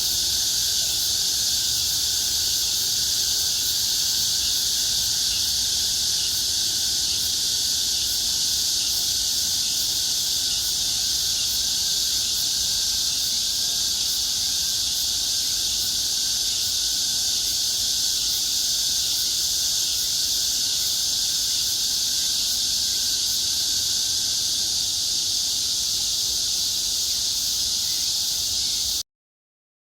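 Steady, loud chorus of cicadas buzzing as a continuous high hiss; it cuts off suddenly near the end.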